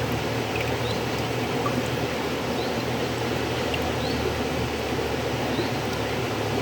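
River water flowing in a steady, even rush, with a low rumble underneath and a few faint, very short high chirps scattered through it.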